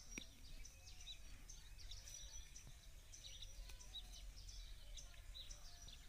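Near silence: faint, scattered chirps of birds in the background over a low steady hum.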